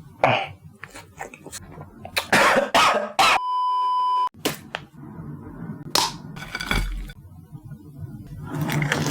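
Sharp crunching and cracking sounds, broken about three and a half seconds in by a steady electronic beep lasting about a second, then more crackles.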